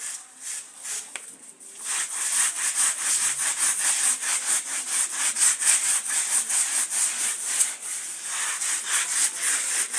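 A carpet being scrubbed by hand in quick, rhythmic back-and-forth strokes, about three a second, with a short pause just before two seconds in.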